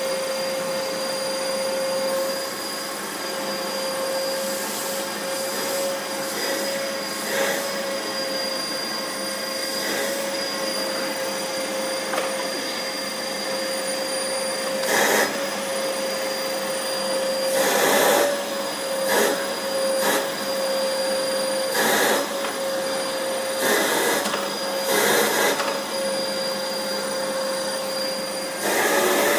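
Vacuum cleaner running steadily, with a constant whine over the rush of its airflow. Several brief louder rushes of air come around the middle and again near the end.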